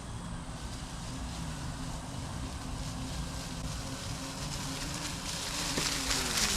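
A small motorbike's motor running with a low, slightly wavering hum, and a rush of noise that builds near the end as it comes closer.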